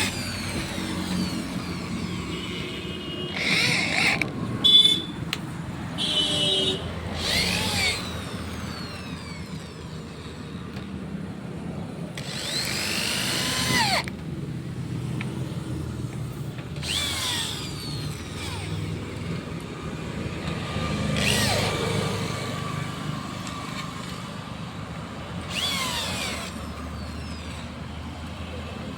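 Hand-held power drill running in short bursts, about seven or eight times, its pitch falling as each burst runs down, over a steady low background hum.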